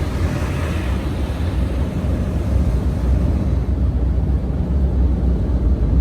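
Automatic truck wash running over the truck, heard from inside the cab: a steady low rumble with a hiss of water spray that dies down over the first few seconds.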